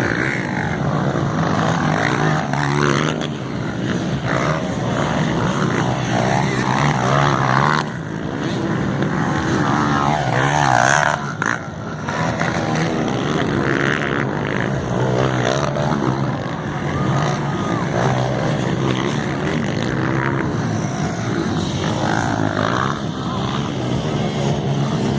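Several motocross motorcycles racing, their engines revving up and down as the riders shift and throttle, overlapping one another over a steady drone.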